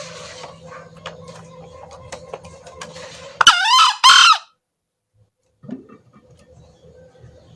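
Male green junglefowl crowing once, a loud two-part call about three and a half seconds in, over faint clicks and a low hum.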